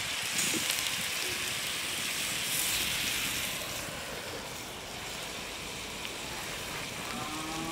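Lamb and vegetables sizzling in a saj pan. The sizzle turns quieter about four seconds in, as a glass lid is set over the pan.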